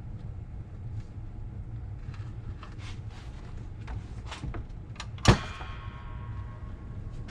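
Light metallic clicks and taps of hand tools working on a Rolls-Royce Phantom III front brake backing plate assembly, then about five seconds in one loud metal-on-metal clank that rings on for a couple of seconds.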